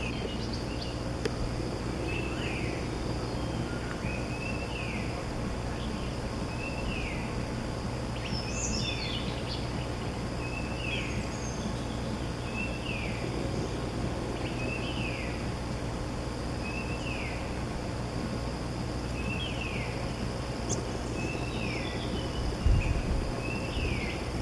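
A small bird calling over and over, a short note that slides downward, about once every second or so, over a steady high insect hum. A few low thumps come near the end.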